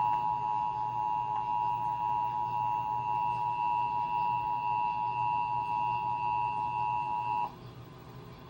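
Emergency Alert System two-tone attention signal from a DASDEC encoder, held steady and cutting off suddenly about seven and a half seconds in.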